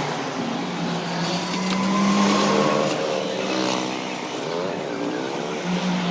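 A motor running steadily, its hum wavering slightly in pitch over a hiss.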